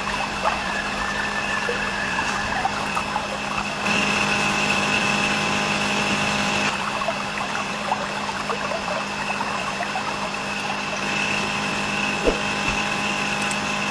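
A small motor runs with a steady low hum and a high whine, with water running. The sound changes abruptly about four seconds in and again near seven seconds.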